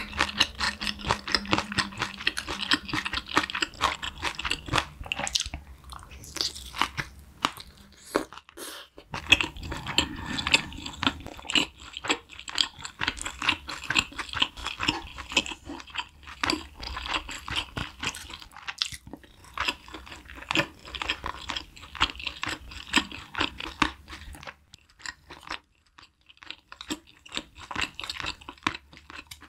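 Close-miked chewing of spicy braised chicken (dak bokkeum tang): a steady run of quick mouth clicks and chewing noises, dropping quieter for a couple of seconds near the end.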